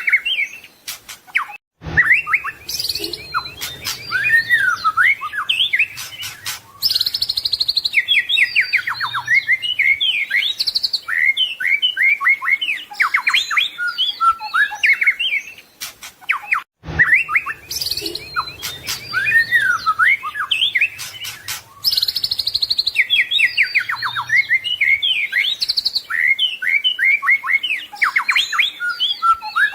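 White-rumped shama (murai batu) singing a long, varied song of whistled glides and rapid chattering trills. The same passage plays twice, about fifteen seconds apart.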